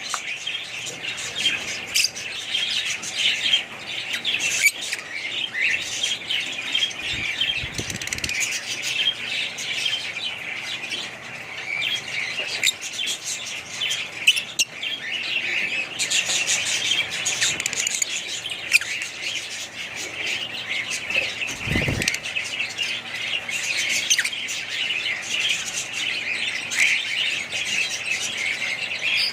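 Many small birds chirping and chattering at once in a steady, dense flock chorus, with occasional squawks. Two brief low rumbles come through, about a third of the way in and again about three quarters in.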